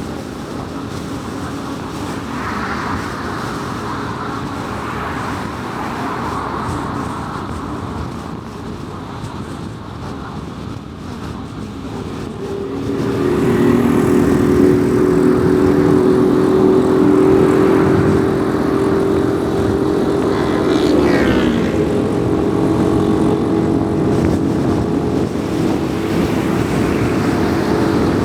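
Car driving at speed on a highway: steady road and tyre noise. About halfway through it grows louder, and a steady low humming drone joins it. About three quarters in, a brief falling sweep passes.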